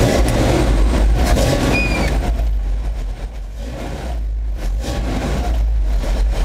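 Home-built manual V8 truck engine running hard under load, a loud deep rumble that eases briefly about four seconds in and then picks up again.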